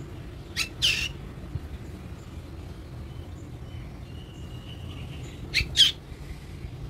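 A pet black bird squawking: two pairs of short, sharp calls, one about a second in and the other near the end.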